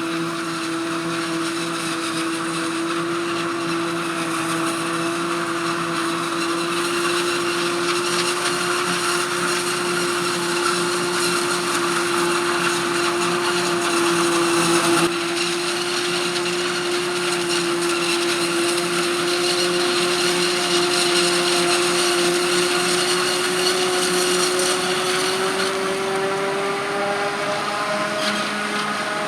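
Heavy harvest machinery running under steady load, with a strong, steady whine that rises slightly in pitch near the end.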